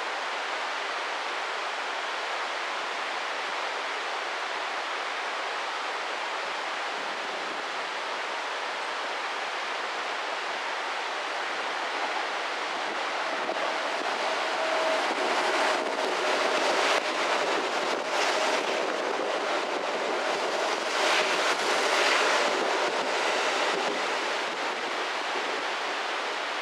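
Steady typhoon wind and rain noise on the microphone, with a Hanshin Railway electric train passing through the station at reduced speed from about halfway: a steady tone rises, sharp clacks of wheels over rail joints come in a run, and the sound fades near the end.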